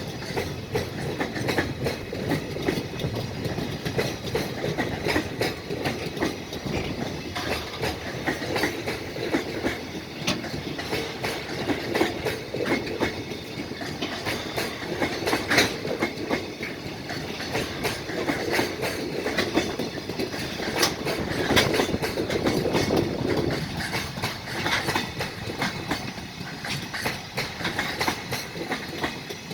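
A freight train passing at speed, its container wagons rolling by with a steady clickety-clack of wheels over the rail joints.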